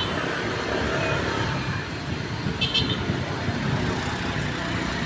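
Truck engine running amid road traffic noise, a steady low rumble. About two and a half seconds in there is a brief high-pitched double beep.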